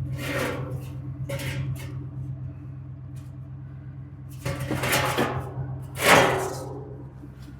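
An engine idling steadily, with four short noisy bursts over it, the loudest about six seconds in.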